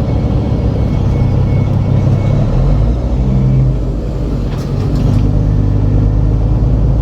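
Semi truck's diesel engine and road noise heard from inside the cab, a steady low rumble; the engine note drops briefly about four seconds in, then picks up again.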